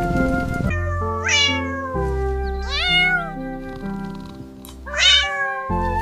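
A cat meowing three times, each call rising in pitch, about two seconds apart; the third is the loudest. Gentle background music plays throughout.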